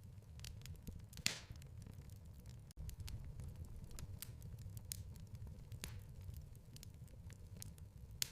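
Fireplace fire crackling and popping over a low, steady rumble of flame. The sharpest pops come about a second in and again near the end.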